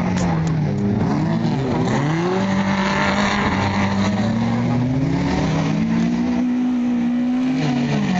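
Competition car's engine revving hard on an auto slalom course, its pitch dipping sharply about two seconds in, then climbing again and held high before dropping near the end as the driver lifts off and accelerates between gates.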